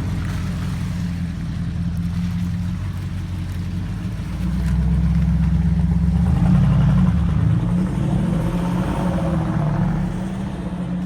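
Mercedes-Benz G400 engine running through an aftermarket exhaust, a steady low note that rises and grows louder from about four and a half seconds in, then eases near the end.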